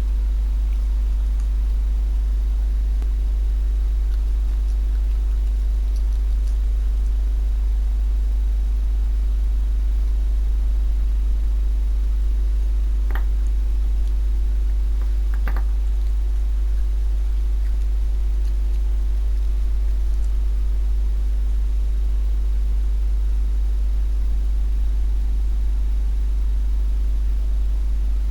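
Steady low hum with faint higher tones above it, unchanging throughout; about halfway through, two faint short clicks come a couple of seconds apart.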